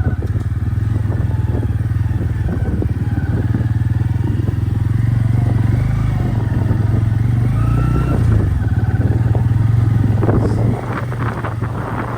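Bajaj Pulsar N160 motorcycle's single-cylinder engine running under way on a rough dirt road, its pitch rising and falling a little, with rattling and clatter from the bumpy track. It eases off and gets quieter near the end.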